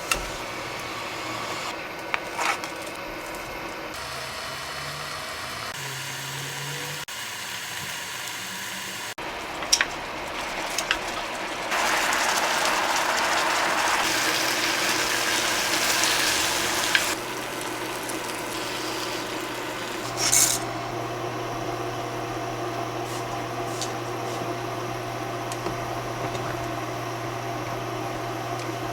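Kitchen work sounds: a few sharp clicks and knocks, and a loud hiss of running water or food sizzling that lasts about five seconds from about twelve seconds in, over a steady low hum.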